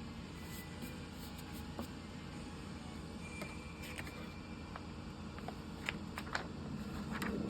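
Steady low background hum with a few light clicks and taps, most of them near the end.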